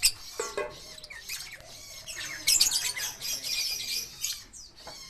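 Lovebirds squawking and chirping in short, shrill calls, with a louder run of squawks about halfway through.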